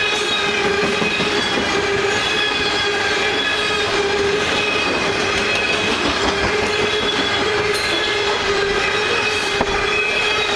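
A freight train rolling past, its wheels squealing on the rails in a steady tone that fades and returns, over the constant rumble of the cars.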